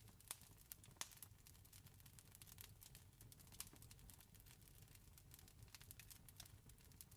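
Wood fire crackling quietly: irregular sharp pops and snaps, several a second, over a faint low rumble.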